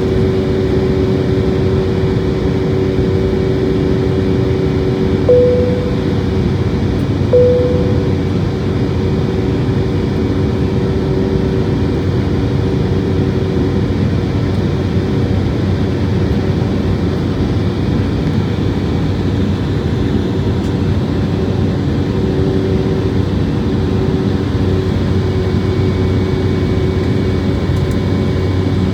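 Steady drone of a jet airliner's engines and airflow inside the cabin of an Embraer jet in flight, with steady humming engine tones. Two short tones sound about two seconds apart, roughly five and seven seconds in.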